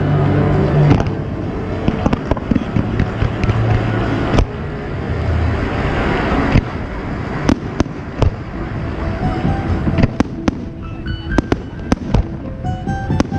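Fireworks display with many sharp bangs of bursting shells scattered throughout, thickest around the middle, over music playing.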